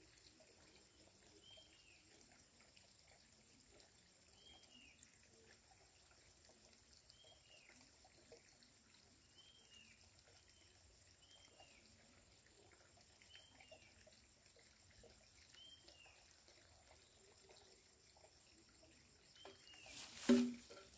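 Quiet rural pond-side ambience: a bird gives a short high chirp every second or few seconds over a faint steady high buzz. Near the end come a brief louder noise and a second one just after.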